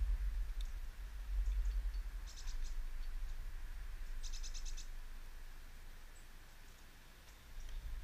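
Small garden birds calling: two short bursts of rapid, high, repeated chirps, about two seconds in and again about four seconds in, with a few faint single ticks. A low rumble sits underneath, strongest at the start and fading away.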